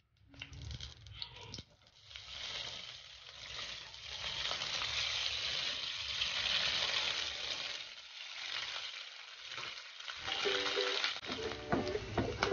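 Diced sweet ham frying in hot oil in a pan, a sizzle that builds and is loudest about halfway through as the ham goes in, with a spatula stirring it. Background music comes in near the end.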